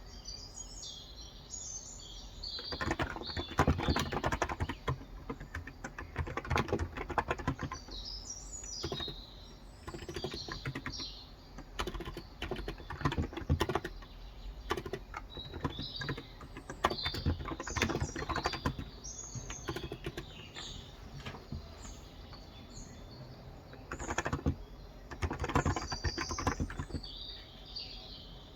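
Typing on a Cox Endeavor electro-capacitive tenkeyless keyboard with 35 g keys: runs of soft key strokes coming in bursts, with short pauses between them. Small birds chirp in the background throughout.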